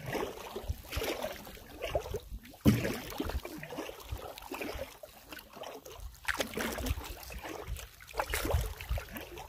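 Knocks and scrapes on a canoe hull with some water sloshing as the canoeist moves about to get out, including one sharp knock about three seconds in.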